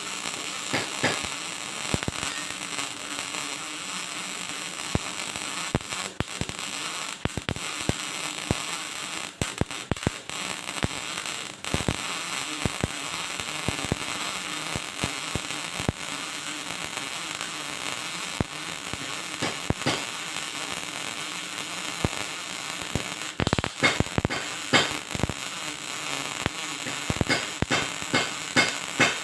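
MIG welding arc crackling and hissing steadily, with a few brief breaks where the arc stops and restarts. There are sharper, louder pops in the last several seconds.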